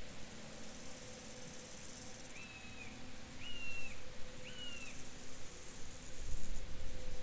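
Field ambience: a steady high hiss of insects and crickets, with a bird giving three short, level whistled calls about a second apart in the middle. A low rumble of wind comes in near the end.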